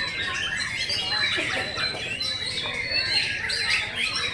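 Many caged songbirds singing at once: a dense, unbroken chorus of overlapping chirps, trills and whistles.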